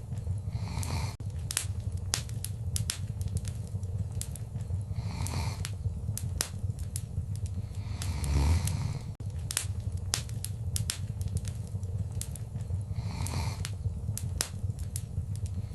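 Wood fire crackling, with many sharp pops and snaps over a steady low rumble. There are several soft hissing swells, the loudest about halfway through.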